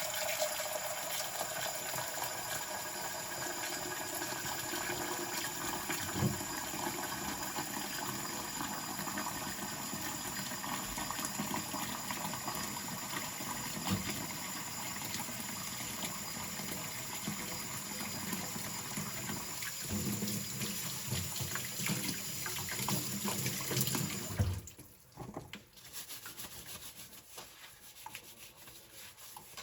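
Kitchen tap running into a sink while dishes are washed under it, with a few knocks of crockery or glass. About 24 seconds in the water is shut off, leaving only faint clinks.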